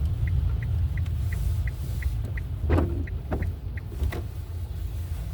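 A car's turn-signal indicator ticking evenly, about two and a half times a second, over the low rumble of the car driving. The ticking stops about two and a half seconds in, and a single click follows later.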